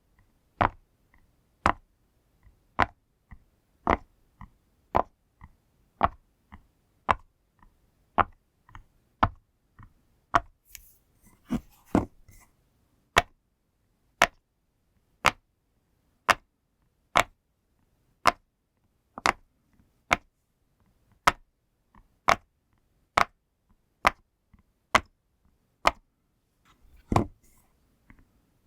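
Pop toy being pressed one bubble at a time: sharp single pops at an even pace of about one a second, with a few fainter clicks between them in places.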